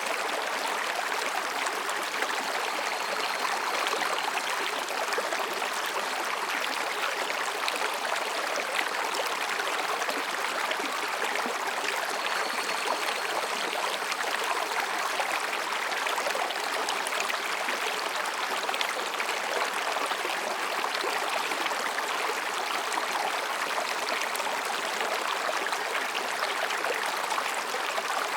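Mountain stream babbling over and between rocks, a steady rushing, splashing water sound.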